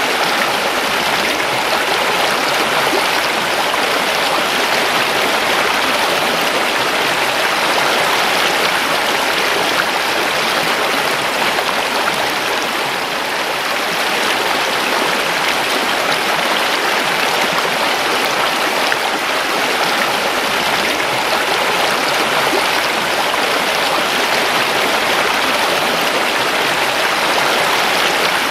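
River water running and burbling steadily over rocks, a continuous rushing with no let-up.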